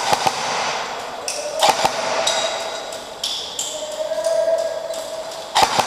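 Airsoft gunfire: sharp cracks at the start, about two seconds in and near the end, with short ringing pings between them, typical of BBs striking hard surfaces.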